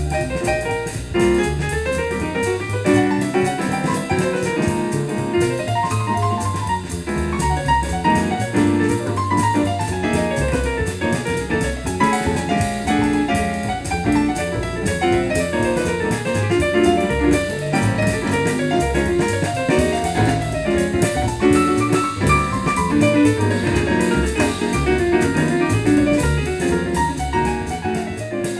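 Instrumental jazz passage led by piano with quick running lines over a drum kit, played back through a home-built speaker with a FOSTEX FE167 full-range driver and FT17H tweeter and picked up by a microphone in the room.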